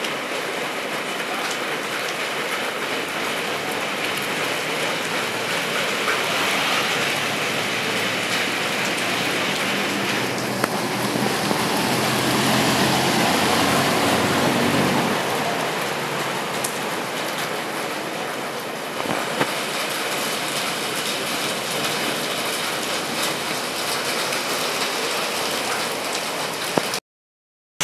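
Steady rain falling on a wet paved street. About halfway through, a city bus passes and its engine adds a low rumble for a few seconds. Near the end the sound drops out for about a second.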